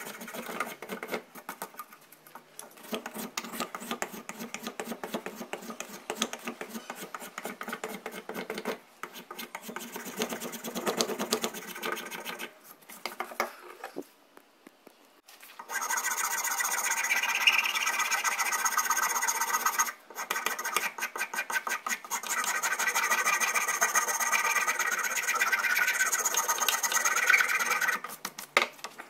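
Abrasive hand work during the axe restoration: fast back-and-forth rasping strokes. About halfway through, after a short pause, it turns into a louder, steadier scraping that breaks off briefly once and stops near the end.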